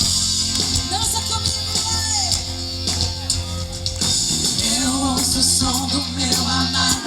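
Live band playing a Brazilian gospel song: guitar and percussion under a singing voice that takes up the melody about halfway through.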